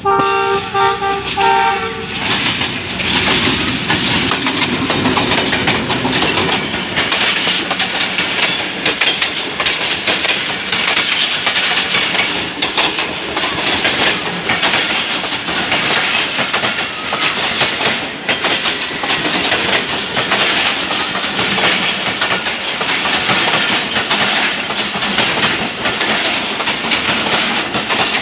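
A ZCU-20 diesel-electric locomotive sounds its multi-tone horn for about two seconds with short breaks. It then passes close by hauling a passenger train, and the coaches roll past in a loud, steady rumble with the clickety-clack of wheels over rail joints.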